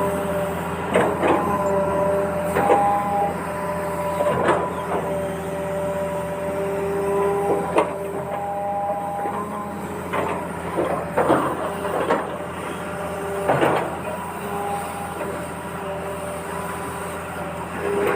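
Machinery engine running steadily, with high whining tones that come and go and a dozen or so sharp clanks and knocks scattered throughout.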